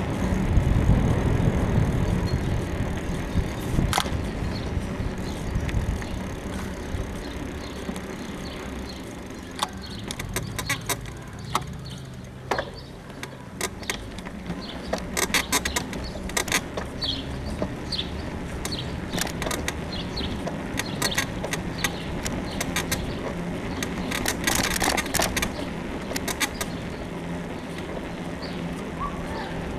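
A bicycle being ridden, its frame suspension creaking and clicking irregularly, which the rider puts down to a worn suspension bushing. Wind rumbles on the microphone in the first few seconds.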